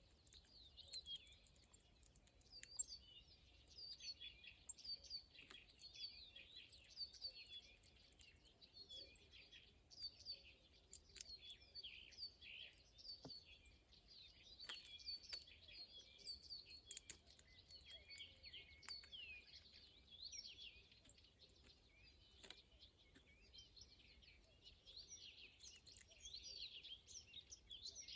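Faint chorus of small songbirds chirping and singing, many short overlapping calls and trills with no pause.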